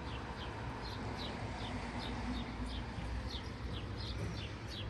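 Small birds chirping: short high chirps, two or three a second, each falling slightly in pitch. A steady low background rumble runs underneath.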